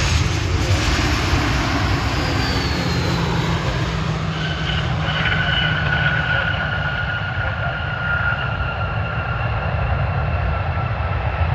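Jet engines of an arriving Southwest Boeing 737 airliner running loud and steady, with a high whine of two steady tones coming in about four and a half seconds in.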